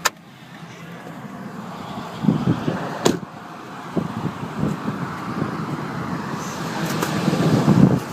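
Popping the hood of a 2002 Ford Expedition: a sharp click as the hood release is pulled, then a sharp knock about three seconds in. A steady vehicle rumble runs underneath with handling knocks, growing louder toward the end.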